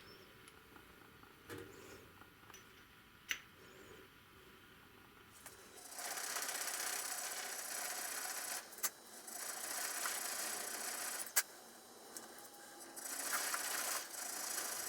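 Workshop tool work on metal: a few light clicks and taps, then three stretches of rough grinding or abrading noise, each two to three seconds long, with a sharp click between them.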